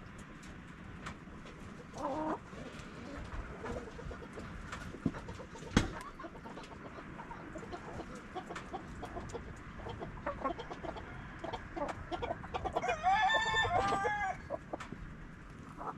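Chickens clucking, with a rooster crowing once near the end, the loudest sound. A single sharp knock comes about six seconds in.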